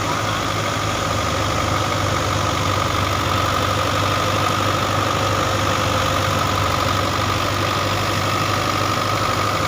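A tractor engine running steadily at constant speed, with a steady high hum above the engine note.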